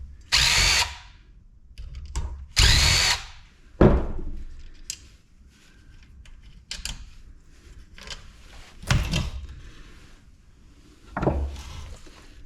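Cordless drill spinning in two short bursts, its motor pitch rising and falling each time, followed by a few sharp knocks.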